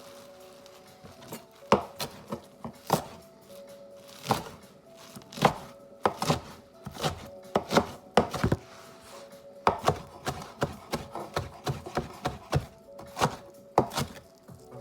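Kitchen knife chopping food on a cutting board: a run of sharp, irregular knocks, some in quick clusters.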